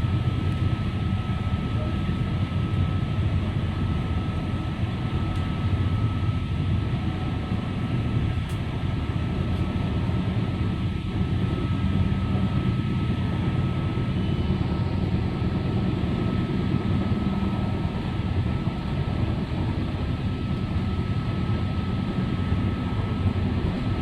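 Steady running noise inside a Northern Ireland Railways Class 3000 diesel multiple unit on the move: underfloor engine and wheels on rail, with a thin steady whine over the low rumble.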